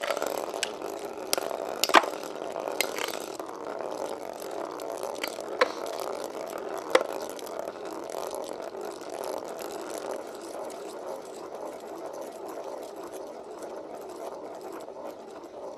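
Two metal-wheeled Beyblade Metal Fusion spinning tops whirring steadily as they spin in a stadium. Sharp clicks come as they strike each other, the loudest about two seconds in, then fewer and softer. The whir eases off a little as they slow.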